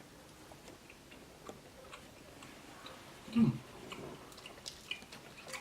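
Faint, irregular clicks and small mouth sounds of someone chewing a snack, with a short low 'mm' that falls in pitch about three and a half seconds in.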